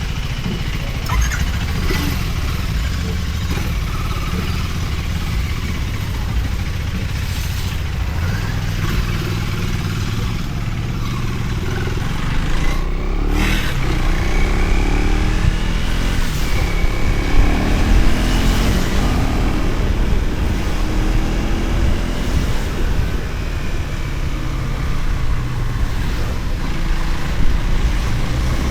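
Motorcycle riding on the road: its engine runs under a heavy low rumble of wind on the microphone. Its pitch rises and falls several times around the middle as the speed changes.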